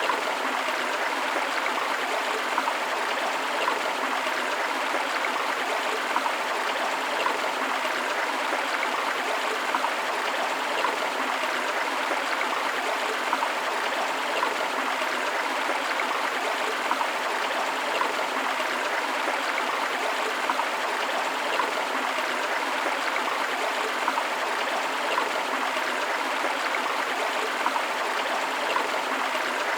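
Steady rush of flowing water from a forest river, with small splashes and gurgles but no low rumble.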